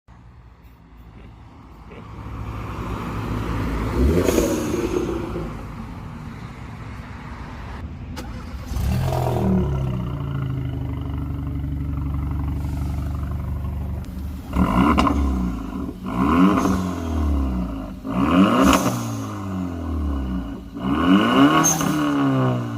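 Hyundai Avante Sport's 1.6-litre turbocharged four-cylinder through an aftermarket performance exhaust: it builds revs to a surge about four seconds in, holds a steady drone for several seconds, then is blipped four times near the end, each rev rising sharply and falling away.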